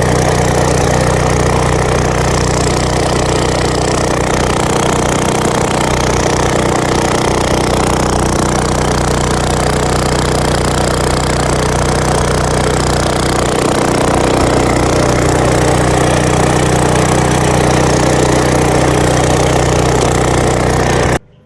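Small gasoline engine of an old Titan Industrial pressure washer running at a steady, even speed after being brought back to life with a replacement pump. It cuts off suddenly near the end.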